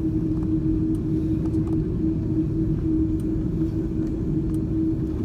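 Steady low rumble inside the cabin of an Airbus A330-202, with a constant hum running through it and a few faint clicks. This is the cabin noise of the airliner on the ground after landing, most likely while it taxis to the gate.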